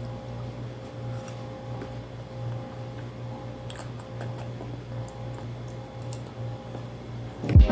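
A few light clicks and soft handling noises from eating cold spaghetti over a steady low hum. Loud music comes in near the end.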